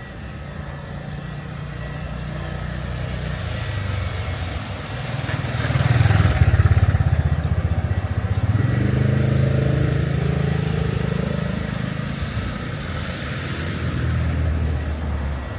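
Motor vehicles passing close by on a wet road: engines hum low and swell loudest about six seconds in and again a few seconds later, with tyre hiss as each one goes past.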